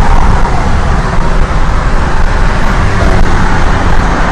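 Loud, steady road rumble and noise inside a car's cabin as the car rolls along under tow.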